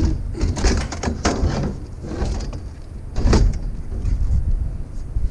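Scrap items being handled and loaded: a few clattering knocks and rattles, the loudest a little after three seconds in, over a low rumble.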